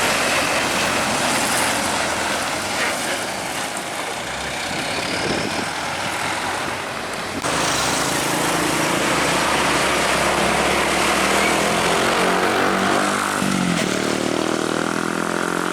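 Heavy trucks passing close by on a highway, with steady tyre and engine noise. The sound jumps suddenly louder about seven seconds in. Near the end a truck's engine drone shifts in pitch as the truck goes by.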